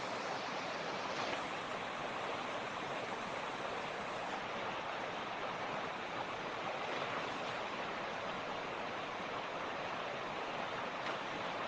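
Mountain creek rushing over rocks, a steady, even water sound with no pauses or changes.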